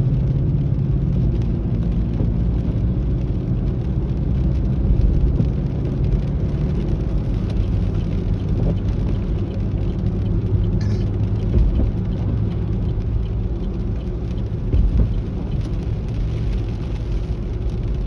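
Engine and road noise heard from inside a moving truck's cabin: a steady low rumble, with a brief click about eleven seconds in.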